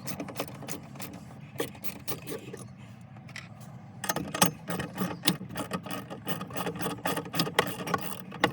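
Socket ratchet clicking while loosening the 10mm nuts on a 12-volt battery hold-down bracket, the nuts proving stiff. The clicks are sparse at first, then come faster and louder from about four seconds in.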